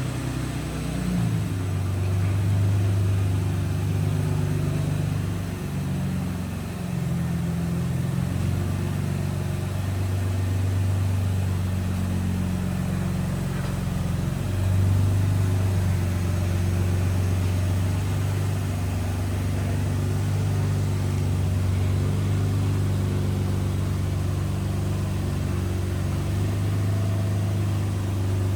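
Infiniti G35's freshly swapped engine running steadily, its low hum shifting slightly in pitch a few times.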